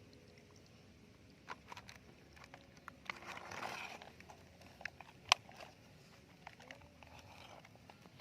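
Small plastic toys being handled: scattered light clicks and knocks, one sharper knock about five seconds in, and a brief scraping rustle a little after three seconds.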